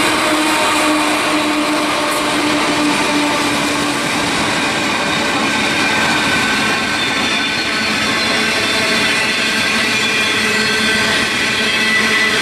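A freight train rolling past at close range. The diesel locomotives' engine drone is heard in the first few seconds, dropping slightly in pitch as it fades. After that, the steady rumble and rattle of the wagons' wheels on the rails continues throughout.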